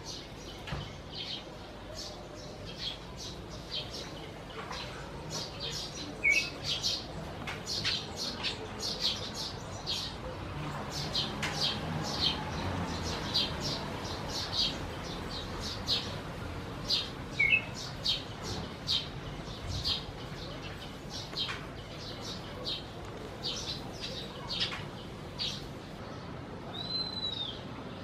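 Birds chirping: a busy run of short, high chirps, several a second, with two brief lower notes and a clear arched whistle near the end.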